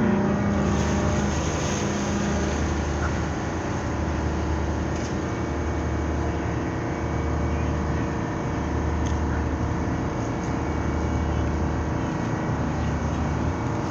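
A ship's engine running steadily during docking: a continuous low drone with steady hum tones above it.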